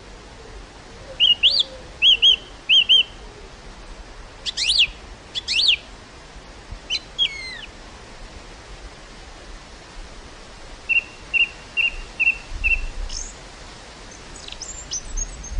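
Small birds chirping: scattered short calls with quick falling sweeps, and about eleven seconds in a run of five evenly spaced notes. Underneath is a soft steady hiss of breeze, with gusts rumbling on the microphone near the end.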